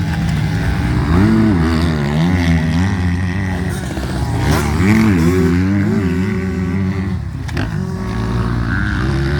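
Motocross dirt bike engines revving, their pitch rising and falling again and again as the throttle opens and closes.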